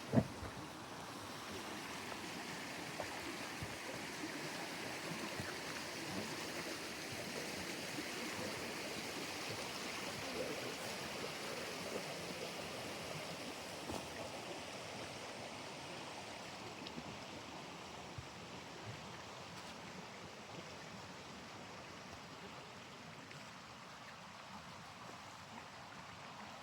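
Running water of a small stream, a steady rushing hiss that grows louder towards the middle and then fades. There is a sharp click right at the start and a few faint ticks scattered through.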